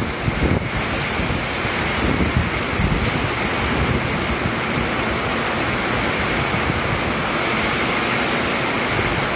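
Torrential rain pouring down in a strong storm, a loud steady hiss. Wind buffets the microphone in the first second or so.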